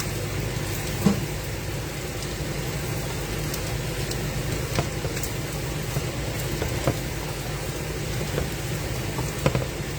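Steady hiss of food heating in a pan on the stove, with a low hum underneath and a few light clicks and taps.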